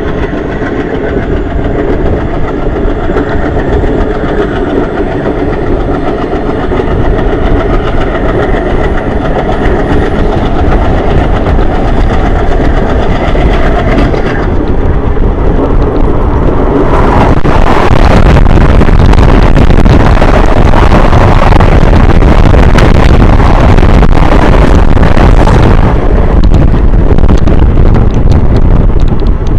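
Express passenger train running on the track, heard from its open door: the rumble of wheels on rails, with a faint high whine rising slowly through the first half. From about halfway, wind rushes over the microphone and is the loudest sound for several seconds.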